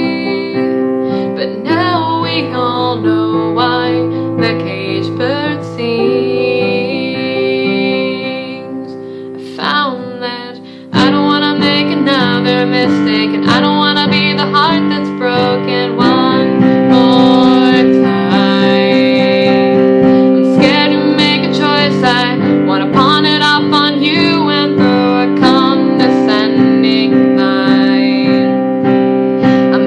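A woman singing an acoustic ballad over strummed acoustic guitar. The music thins and drops in level around ten seconds in, then returns fuller and louder.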